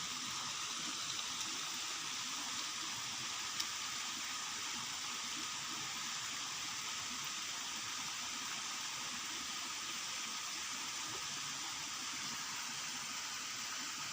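Steady hiss of water, even and unchanging, with a single faint click about three and a half seconds in.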